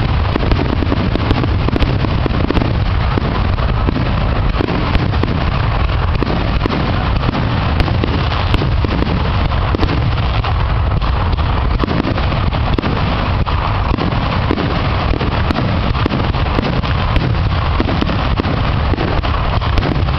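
Aerial fireworks bursting in a rapid, continuous barrage, the bangs and crackle running together into a dense, steady rumble with many sharp pops.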